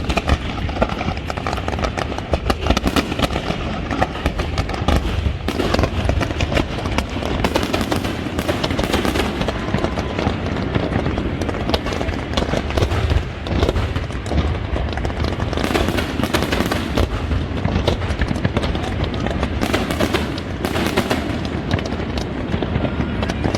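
Aerial fireworks going off in rapid succession: a dense run of bangs and crackles over a continuous low rumble of explosions.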